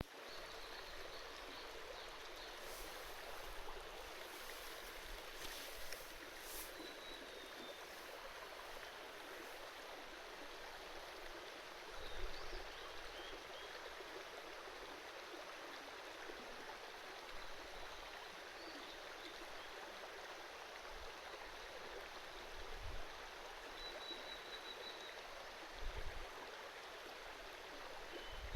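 Shallow river babbling steadily over stones, with a few faint high chirps and a few brief low bumps.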